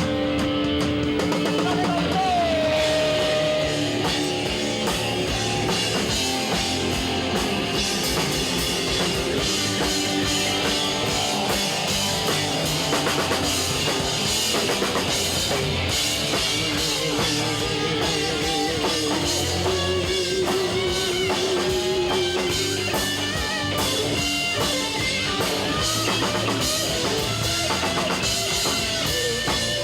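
Rock band playing live: electric guitars and drum kit, with a held lead line wavering in pitch through the middle.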